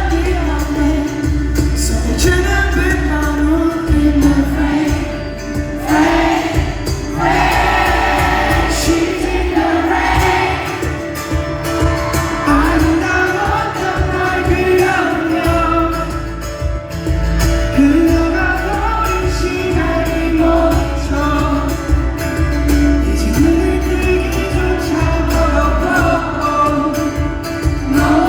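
Pop-rock band music with singing, performed live: steady bass and sustained instruments under a wavering vocal line.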